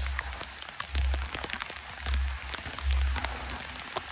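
Rain falling onto a flooded concrete yard: a steady hiss dense with the ticks of drops hitting standing water, with a low rumble swelling and fading about once a second.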